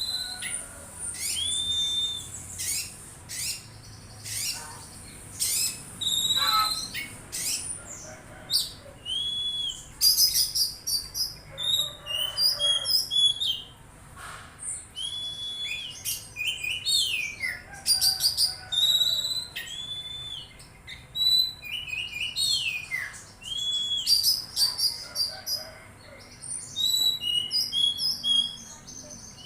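Oriental magpie-robin singing: a varied run of short arched whistles, quick chirps and sharp high notes, repeated in phrases every second or so.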